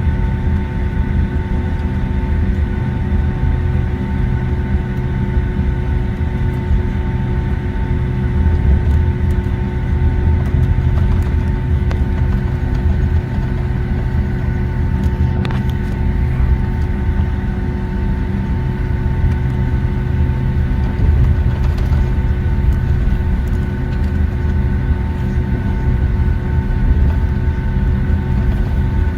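Boeing 757-200 taxiing, heard inside the passenger cabin: a steady low rumble with the engines' constant whine at taxi power.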